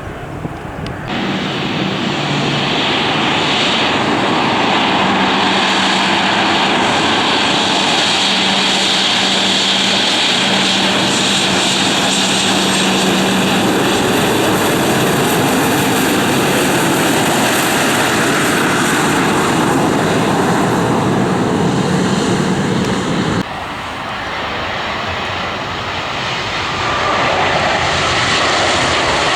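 Airliner engines running loud and steady, heard from the ground, with a steady low hum under the noise for the first half. The sound jumps abruptly about a second in, drops suddenly around twenty-three seconds, then builds again.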